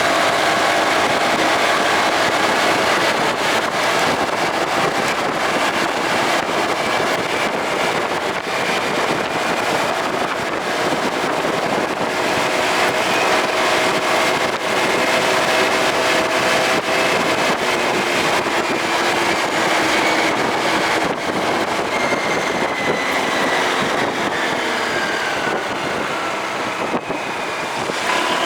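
Motorcycle engine running under way, with wind rushing over the microphone. Its pitch eases down a little past two-thirds of the way through, as if slowing.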